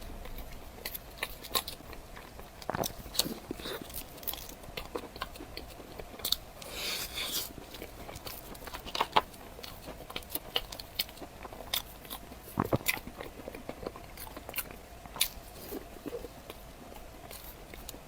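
Close-miked eating: a person biting and chewing crunchy food, with irregular crisp crunches and wet mouth clicks, and a longer crackling crunch about seven seconds in.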